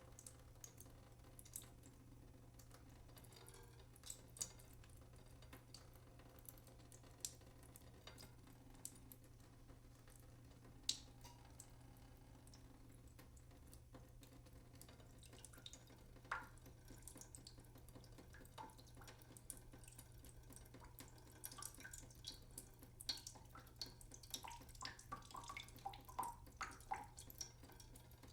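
Water dripping: irregular, faint single drops at first, becoming more frequent toward the end with short plinking notes as the drops hit water.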